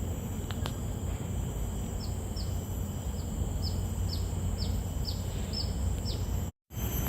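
A bird calling a run of about ten short, high notes, each falling in pitch, roughly three a second, over a steady low outdoor rumble. The sound cuts out briefly near the end.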